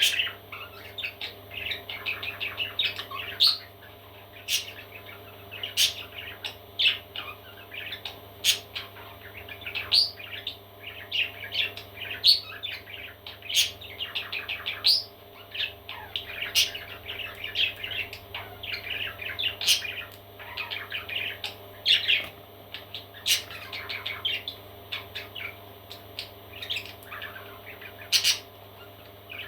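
Parrot chicks chirping and squeaking constantly in a busy run of short, high calls, over a steady low hum.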